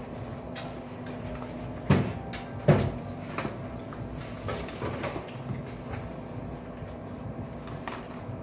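Two sharp knocks about a second apart, around two seconds in, among light clicks and taps from food containers and utensils being handled on a table, over a steady low hum.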